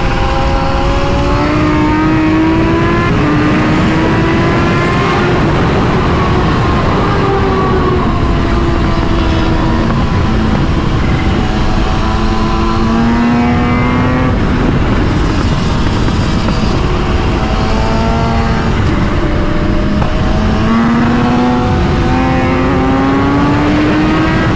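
Motorcycle engine running hard under way, its pitch climbing and dropping again and again as the rider works the throttle, over heavy wind noise on the microphone.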